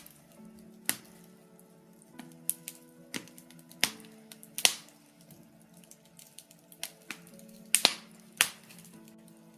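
Birch-wood fire crackling, with irregular sharp pops and many small ticks, the loudest clustered about halfway through and near the end. Soft background music with long held notes plays underneath.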